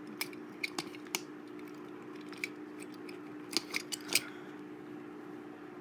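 Small diecast toy cars being handled, giving a scatter of sharp little clicks and clacks as metal and plastic knock together, with a quick cluster of them a bit past the middle, over a steady low hum.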